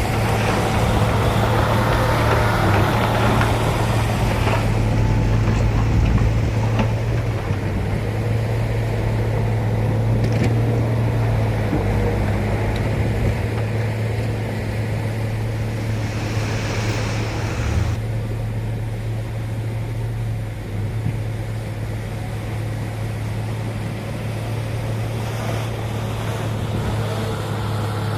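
Heavy diesel earthmoving machinery running steadily, with a steady low engine hum. A broad rushing noise lies over it for the first few seconds.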